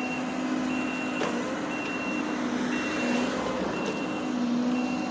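Reversing alarm on heavy construction equipment beeping steadily about once a second, with the machine's diesel engine running underneath.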